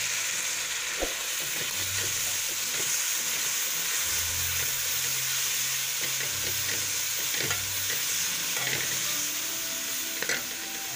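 An onion, green-chilli and spice masala sizzling and frying in oil in a metal pan. A metal spoon stirring it scrapes and taps against the pan now and then.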